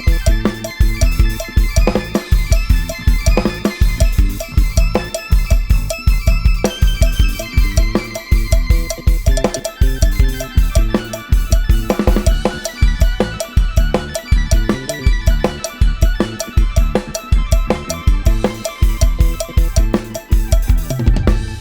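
Thai lai hae procession-style instrumental played from a Sonar project: an Addictive Drums 2 virtual drum kit with kick and snare on a steady beat, a sampled bass and a phin-style melody line above.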